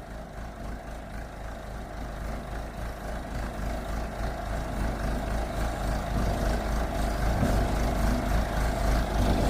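Heavy construction machine's engine running hard under load, growing steadily louder.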